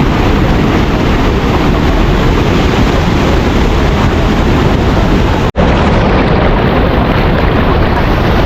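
Loud, steady rush of a waterfall, cutting out for an instant about five and a half seconds in.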